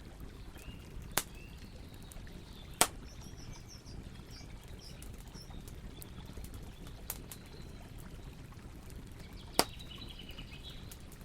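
Campfire burning with a steady low rumble and occasional crackles, three sharp pops standing out about a second in, near three seconds and near the end. Faint bird chirps sound in the background.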